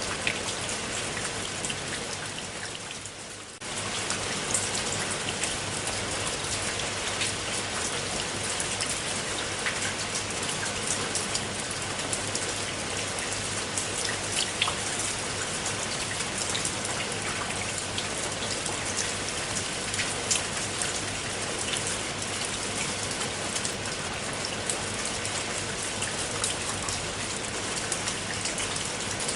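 Steady rain falling, with many separate drops striking close by. The sound fades somewhat a couple of seconds in, then comes back abruptly.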